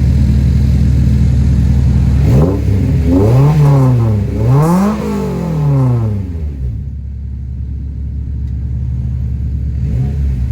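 Honda S2000's four-cylinder engine through an aftermarket Skunk2 exhaust and test pipe, idling, then revved in two quick blips that climb and fall back, settling to a quieter idle before a third blip begins near the end.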